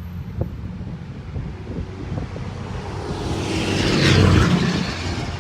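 A vehicle passing by outside: a low rumble under a rush of noise that swells to its loudest about four seconds in, then fades.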